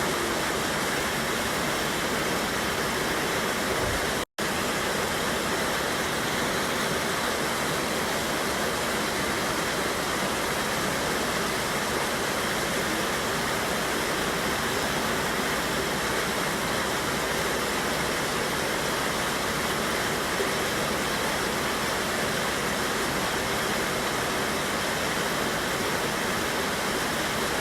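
Mountain river water pouring over a small waterfall: a steady, even rush of water. The sound cuts out for an instant about four seconds in.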